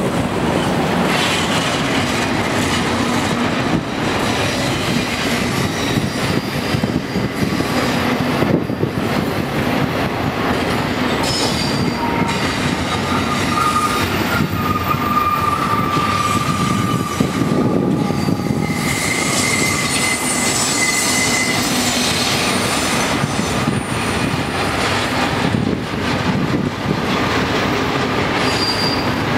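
Double-stack intermodal freight well cars rolling past on the rails, a steady loud rumble and clatter of steel wheels. High thin wheel squeals come and go through the middle stretch.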